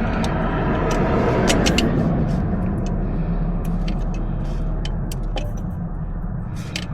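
A passing car's noise that swells about a second and a half in and then fades away, with light clicks from a screw and tools being handled while a thermostat housing screw is threaded by hand.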